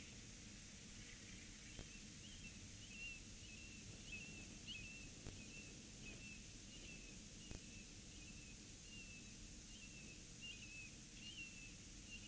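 Faint, steady series of short high bird chirps, about two a second, over a light hiss, with a few faint taps.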